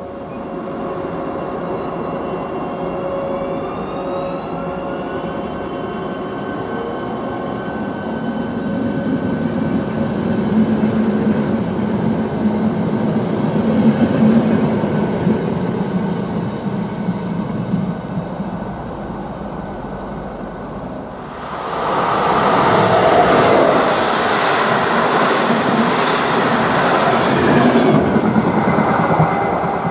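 A ČD class 471 CityElefant double-deck electric unit pulls away with its traction drive whining in several tones that rise in pitch, then runs on with a steady rolling rumble. About 21 seconds in, this switches abruptly to the loud rush of an express train passing at speed.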